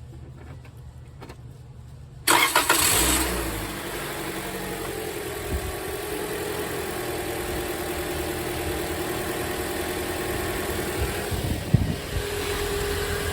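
Toyota Corolla's four-cylinder engine cranking and catching about two seconds in, with a brief loud flare, then settling into a steady idle. It is the first start on fresh oil and a new oil filter.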